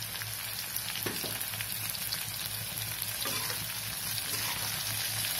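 Quartered brinjals frying in sesame oil in a metal kadai with a steady sizzle, while a steel ladle stirs them with a few short scrapes and knocks against the pan.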